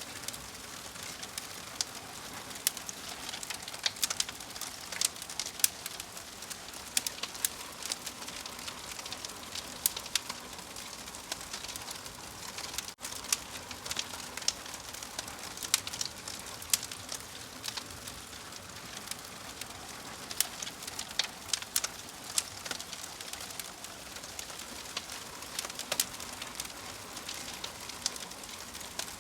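Wood fire crackling: irregular sharp pops and snaps over a steady hiss, with a momentary dropout about halfway through.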